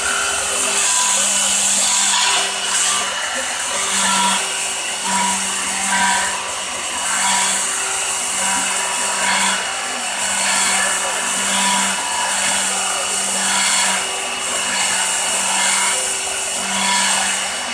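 A power tool running continuously with a steady hum, its sound swelling and easing about once a second.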